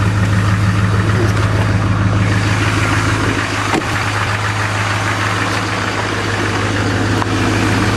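2006 Duramax 6.6L V8 turbodiesel in a Chevy Silverado 2500HD idling steadily, still cold from a cold start at 27 °F without waiting on the glow plugs.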